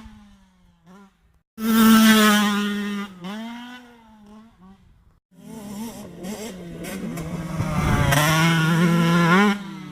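Yamaha YZ65 two-stroke 65cc motocross engine running, its pitch wavering up and down as the bike rides, growing louder as it comes close about eight seconds in. The sound breaks off suddenly near the start and again just before the end.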